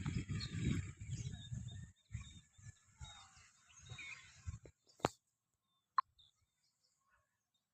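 Outdoor park ambience: birds chirping faintly, with a low rumbling noise over the first couple of seconds. A sharp click comes about five seconds in, followed by two short high blips.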